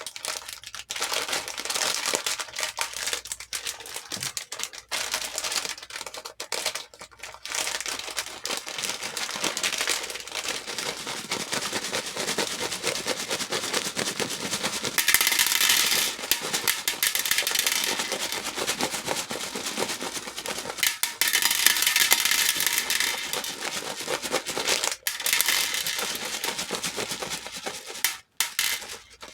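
Hair beads clattering against each other and a bowl: a dense run of small clicks, swelling into three louder rushes in the second half.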